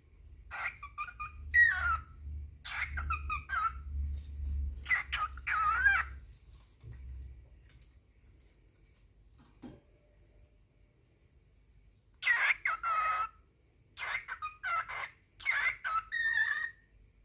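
Cockatiel whistling and calling in short, warbling phrases that rise and fall in pitch, in two bouts with a quiet gap of about six seconds between them: a male's courtship song to his mate.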